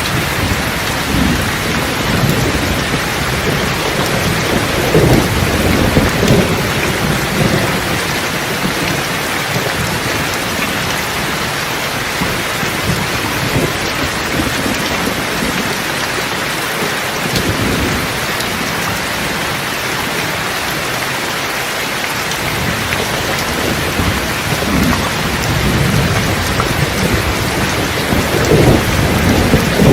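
Steady heavy rain with thunder rolling underneath. The low rumbles swell several seconds in and build again near the end.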